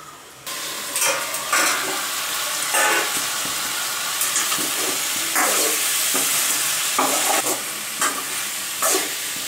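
Chicken pieces in masala sizzling in a hot metal kadai while a steel ladle stirs them, scraping against the pan several times. The sizzle starts abruptly about half a second in.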